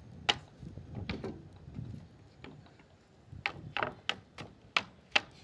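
Dry wood snapping and crackling in a small campfire: irregular sharp cracks, a few at first and a quicker run of them in the second half.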